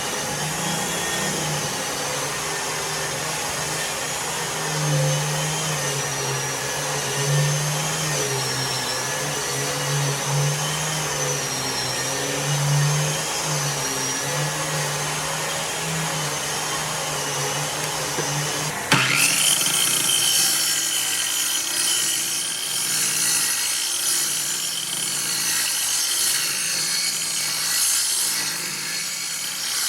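Power tools running on wood: one motor runs steadily with a low hum and a high whine that waver a little in pitch. About two-thirds of the way through it switches abruptly to a different tool with a steadier, higher whine.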